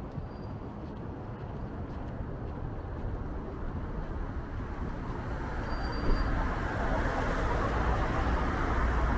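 Road traffic noise on a city street, growing louder from about halfway through, with low wind rumble on the microphone.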